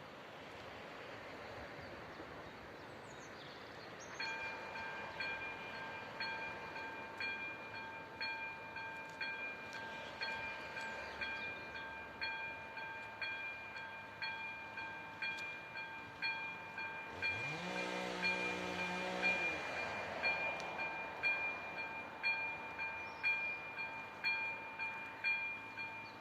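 Railroad crossing warning bell, the signal that a train is coming, starting about four seconds in and dinging at an even rhythm. A deeper drawn-out tone swells up, holds for about two seconds and falls away after about seventeen seconds.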